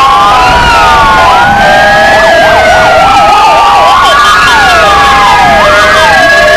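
Four electronic sirens sounding together, two Argentine Federal Police motorcycle sirens and two Kingvox ERP sirens, very loud. Their tones overlap: slow rising and falling wails, a run of quick yelps in the middle, and some steady held tones.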